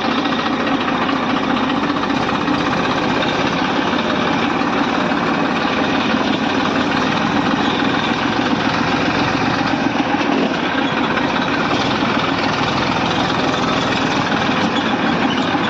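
Massey Ferguson 1035 tractor's 2400 cc diesel engine running steadily, a loud, even diesel clatter with no change in speed.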